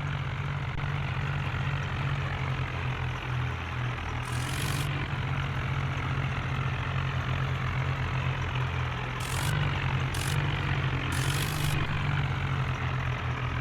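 Tractor diesel engine running steadily with a low, slightly pulsing drone. Short hissing noises come in a few times, about four, nine, ten and eleven seconds in.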